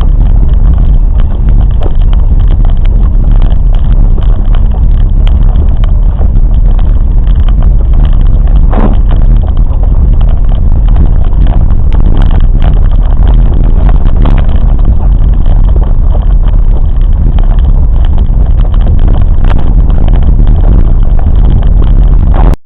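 Train running, a loud steady low rumble with scattered short clicks.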